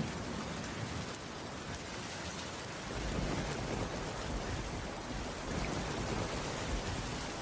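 Steady rain falling on a roof. A low rumble of distant thunder swells about three seconds in.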